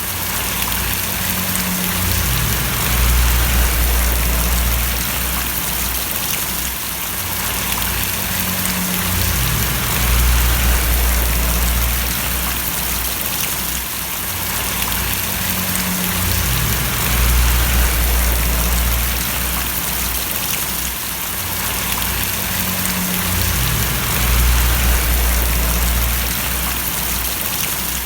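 Steady rain falling and splashing, a dense even hiss, with a low rumble that swells and fades about every seven seconds.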